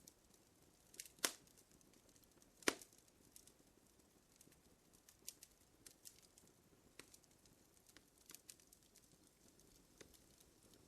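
Fire crackling faintly: irregular small pops and ticks over a soft hiss, with two louder snaps about one and two and a half seconds in.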